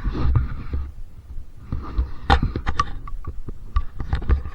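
Dirt bike engine idling with a low throbbing rumble, with sharp clicks and rustles of the camera being handled between about two and three seconds in.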